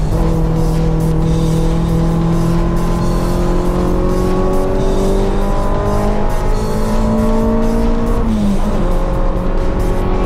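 Honda Civic engine heard from inside the car, pulling hard on a race track, its pitch climbing slowly for about eight seconds, dropping quickly, then climbing again. Background music plays over it.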